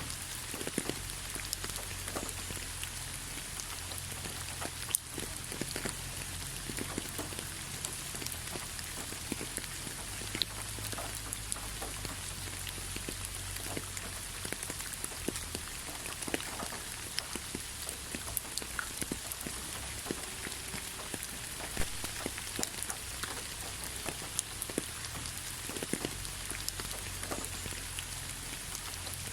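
Light rain falling steadily, with many separate drops tapping on a surface over an even patter.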